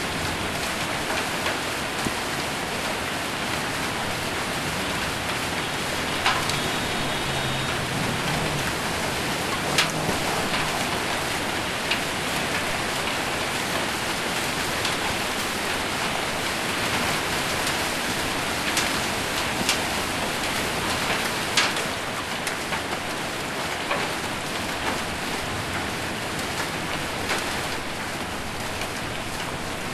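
Steady heavy rain drumming on a metal roof, with occasional sharp cracks of hailstones striking among it, about half a dozen of them.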